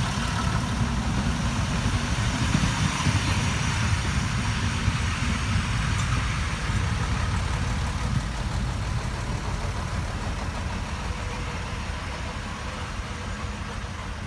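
Train running through a station, a steady deep rumble with hiss above it that slowly fades away.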